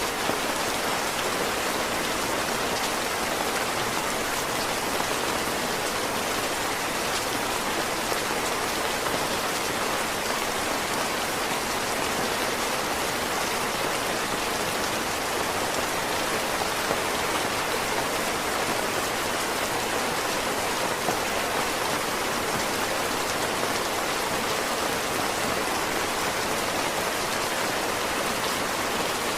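Heavy rain falling steadily, an even hiss of drops with small scattered ticks.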